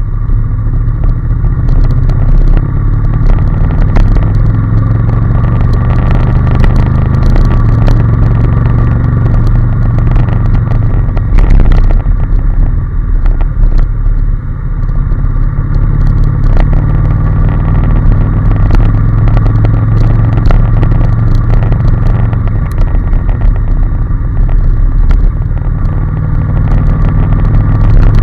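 Honda NC750S parallel-twin engine running while under way, its note rising and falling gently with the throttle. Wind buffeting on the microphone adds steady crackling throughout.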